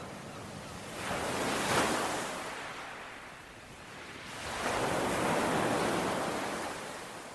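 Ocean waves washing onto the shore: one wave swells about a second in and falls away, and a second, longer one builds about four seconds in and fades toward the end.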